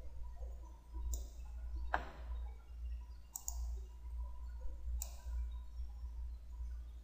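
Computer mouse clicking a handful of times, sharp single clicks spaced a second or more apart, over a steady low electrical hum.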